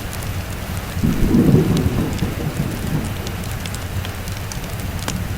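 Steady rain with a roll of thunder that swells about a second in, peaks, and rumbles away over the next two seconds. Scattered sharp ticks sound over the rain.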